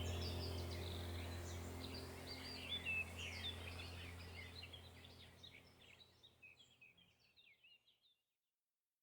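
Several small birds chirping and twittering over a low steady hum, all fading out to silence about eight seconds in.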